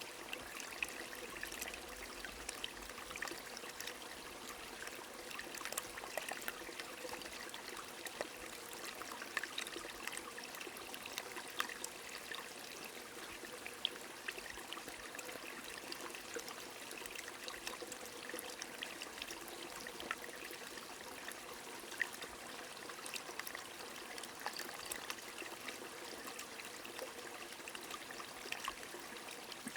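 A small stream running steadily, with rain falling and many small drop ticks scattered throughout.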